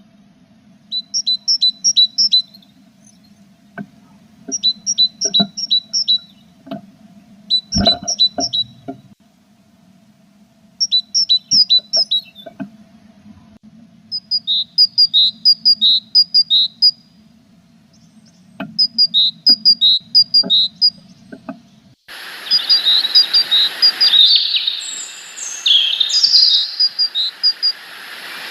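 A small songbird singing phrases of quick, high, alternating notes, repeated every two to three seconds, with a few soft knocks and a low hum beneath. About twenty-two seconds in, the background turns to a steady hiss, with other birds calling.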